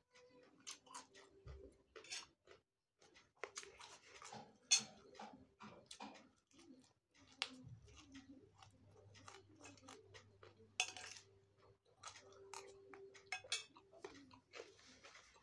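Close-up mouth sounds of a man chewing raw papaya leaves and stalks: irregular crunches and mouth clicks.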